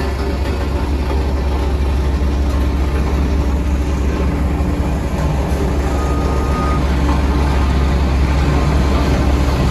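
Heavy diesel engine of road-construction machinery running steadily with a deep, continuous rumble. A short, thin high tone sounds briefly about six seconds in.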